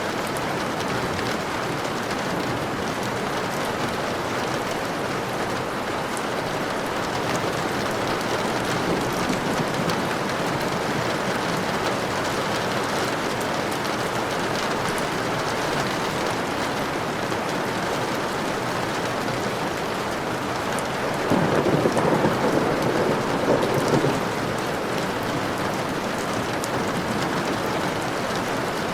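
Steady rain falling, with a short roll of thunder about three-quarters of the way through that briefly rises above the rain.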